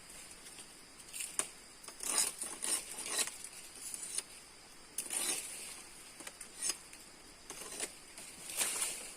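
Irregular rustling and scraping of leaves and brush being handled, in short bursts every second or so, over a faint steady high insect drone.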